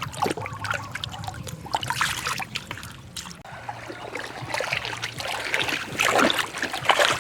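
Shallow floodwater splashing and trickling in uneven bursts, busiest about two seconds in and again near the end, over a faint low hum.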